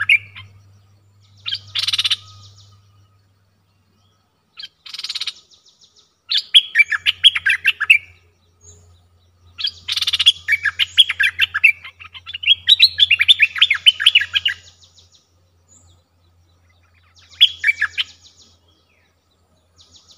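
Songbird singing in short phrases of quick, bright chirping notes separated by pauses of a second or more, with the longest run of song from about 10 to 14 seconds in. Two short harsh rasping calls come around 2 and 5 seconds in, and a faint low hum runs beneath most of it.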